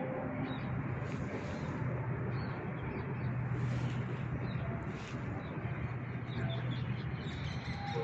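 A steady low hum and hiss, with faint short chirps of small birds now and then.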